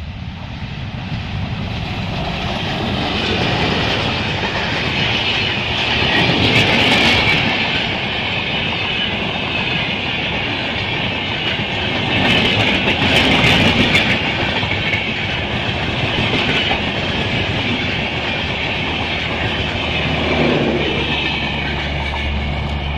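A diesel-hauled express train, a WDM3D locomotive and its coaches, passing close by at speed. Its wheels run loud over the rails, growing louder from the start and swelling about six and thirteen seconds in, with a steady low hum near the end as the last car goes by.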